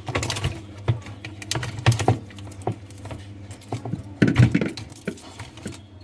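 Irregular clicks and knocks of parts being handled, with a louder cluster about four seconds in, over a low steady hum.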